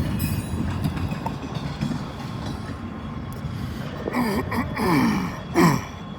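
A freight train rolling slowly through a sharp curve, its wheels giving a steady low rumble. About four seconds in come several short squeals that fall in pitch.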